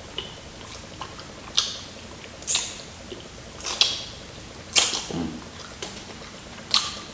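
Crispy fried chicken being bitten and chewed close to the microphone: about six sharp, crackly crunches at irregular intervals of roughly a second.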